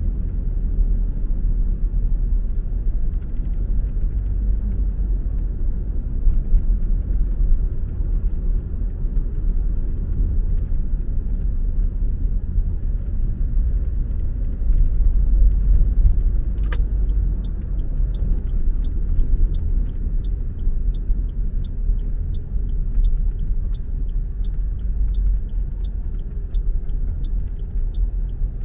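Steady low rumble of a car driving. About 17 s in comes a single click, then the turn-signal indicator ticks evenly, about one and a half ticks a second.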